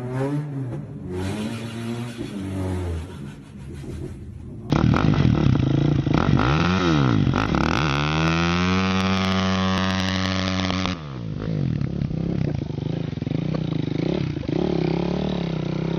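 Vehicle engines revving, their pitch rising and falling, with abrupt cuts between separate recordings. The loudest part, in the middle, holds an engine whose pitch dips, then climbs and holds high before cutting off suddenly.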